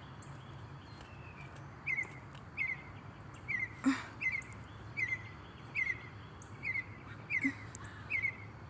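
A songbird repeating a short, quick downslurred whistled note, often doubled, about once every three-quarters of a second, starting about two seconds in. Under it runs a faint steady low hum.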